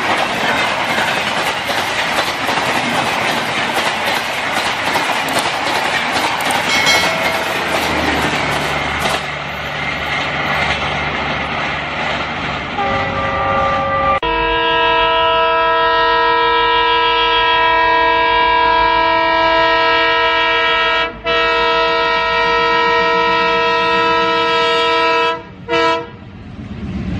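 Train sound: a steady rushing clatter of a train running on rails. About halfway through it gives way to a long, multi-tone train horn that cuts out briefly once, then twice more near the end.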